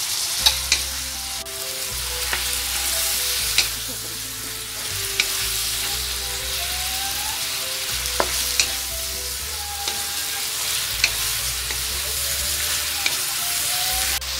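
Chicken pieces frying in butter in a pan, sizzling steadily, while a wooden spatula stirs them and knocks sharply against the pan every few seconds.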